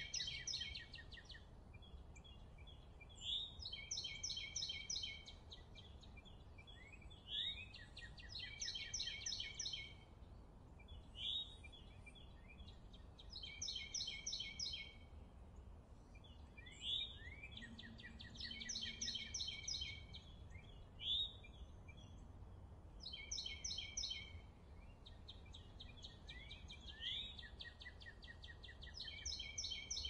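A songbird singing the same short phrase over and over, each a quick sweep followed by a fast trill, about every three to four seconds, over a faint steady low rumble.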